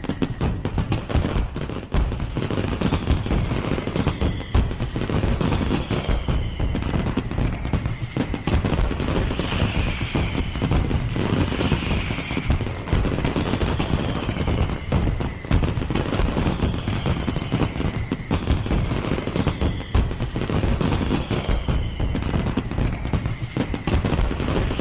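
Fireworks display going off in a continuous rapid barrage of crackles and bangs, with short falling whistles recurring every second or two.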